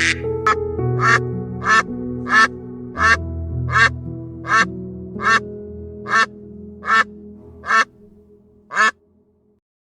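A duck quacking over and over, about thirteen short, evenly spaced quacks, over soft background music with held notes. The quacks stop about a second before the end and everything falls nearly silent.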